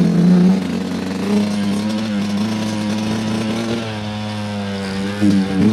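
The two-stroke single-cylinder engine of a 2025 Yamaha YZ125 dirt bike running at a fairly steady pace, with a quick rise and fall in revs near the end.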